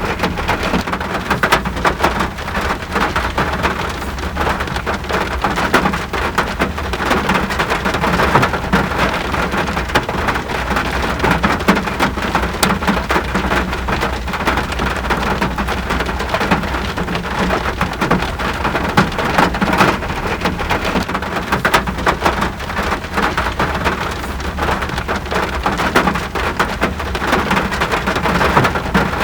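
Steady rainfall: a dense patter of drops over an even hiss, unchanging throughout.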